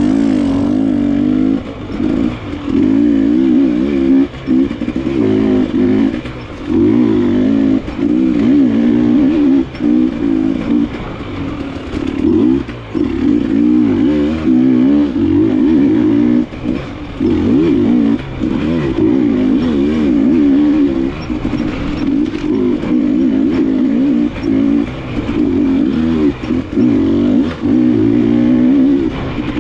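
KTM enduro dirt bike engine being ridden hard on a trail, the throttle rolled on and off so the revs rise and drop again and again every second or two.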